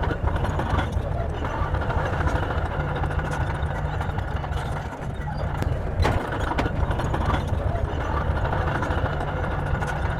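Bulldozer's diesel engine running with a steady, heavy low rumble, and a sharp knock about six seconds in.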